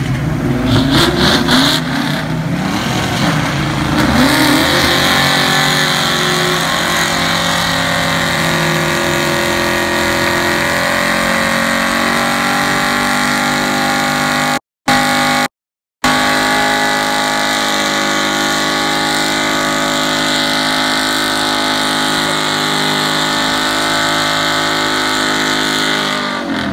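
Ford Mustang engine revved up and down, then held at high revs for a long burnout with the rear tyres spinning. The sound drops out twice briefly a little past the middle.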